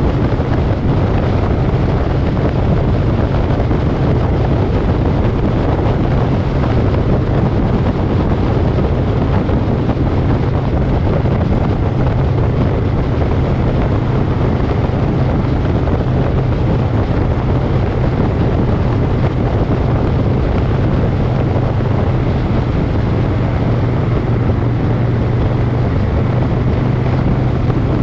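Moto Guzzi Griso V-twin engine running steadily at cruising speed, under a heavy rush of wind over the microphone.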